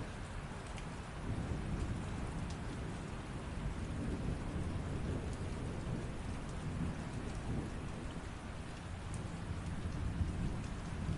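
Steady light rain with scattered drop ticks, and a low rumble that swells about a second in and continues under it.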